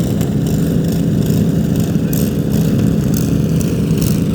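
Small vehicle engines running loudly and steadily, a rough low drone with no letup.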